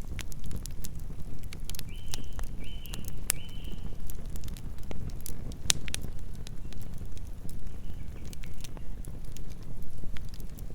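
Campfire burning: wood crackling and popping in sharp, irregular snaps over a low, steady rumble. Three short high-pitched chirps come about two to three and a half seconds in.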